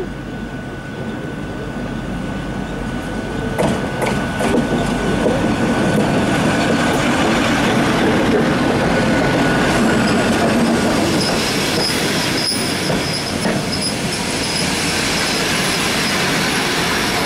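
TEP70BS diesel locomotive at the head of a passenger train drawing into a station and passing close by. Its engine runs and its wheels clack over the rail joints, then the coaches roll past, slowing. In the second half, high squealing comes in as the brakes bring the train to a stop.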